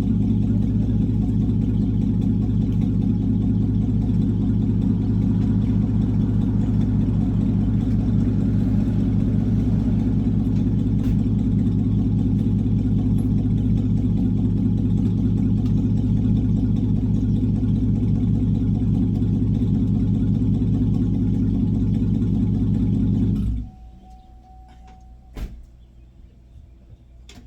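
Truck engine running steadily with a deep drone, cutting off suddenly near the end. A brief thin beep and a click follow.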